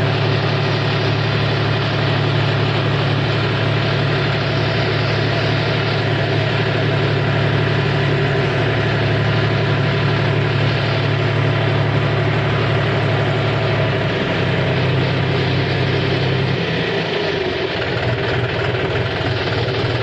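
John Deere 5042D tractor's three-cylinder diesel engine running steadily. Its note shifts a little twice in the last third.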